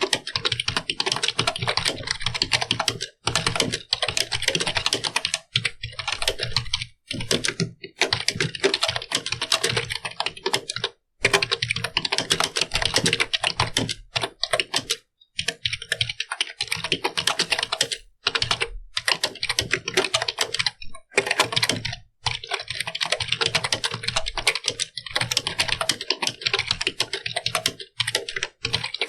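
Computer keyboard being typed on quickly and continuously: a dense run of rapid key clicks, broken by brief pauses every few seconds.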